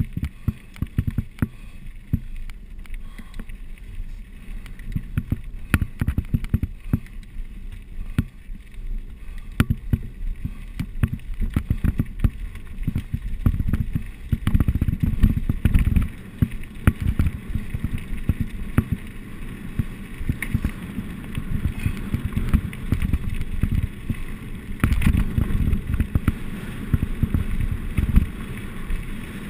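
Mountain bike riding downhill over rough ground: a steady rumble with frequent sharp rattles and knocks from the bike, heavier from about halfway through.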